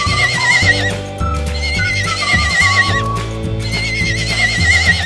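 A horse whinnying three times, each a quavering call about a second and a half long, over steady background music.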